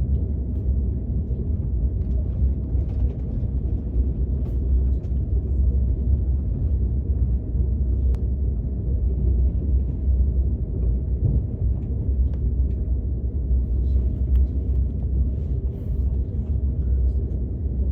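Steady low rumble of a KTX high-speed train heard from inside the passenger cabin, with a few faint scattered clicks.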